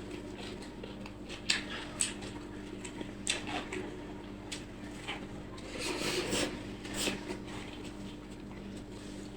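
Close-up eating sounds: chewing and mouth noises with scattered short clicks and rustles from hands and plate, a busier stretch about six seconds in, over a steady low hum.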